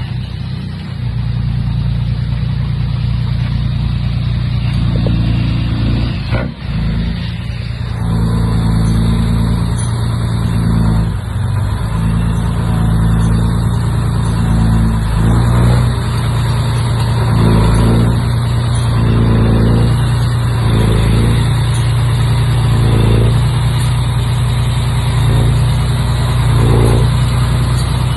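Bulldozer's diesel engine running steadily under work, with short surges in load repeating through the second half.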